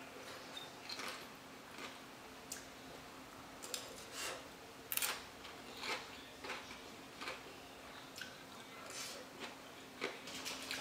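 Chewing a mouthful of crunchy salad topped with fried wonton-skin strips and crushed ramen: quiet, irregular crisp crunches.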